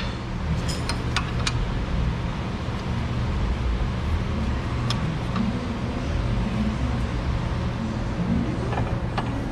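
A steady low mechanical hum, with a few light clicks of tools and metal parts being handled, mostly about a second in and once near the middle.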